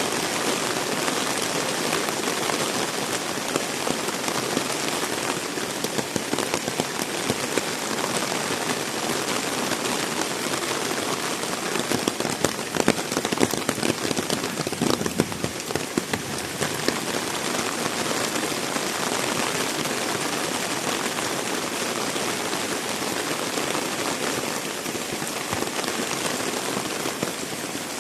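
Heavy rain falling in a steady dense hiss, with many close drops spattering. The spatter grows thicker about halfway through.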